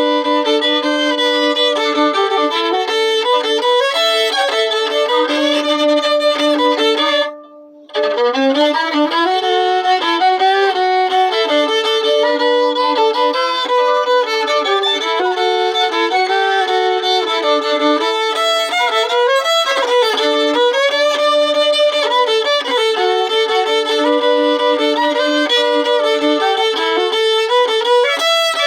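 Fiddle played in a Cajun style, a practice run of a tune with frequent double stops (two strings bowed at once). The playing breaks off briefly about seven seconds in, then carries on.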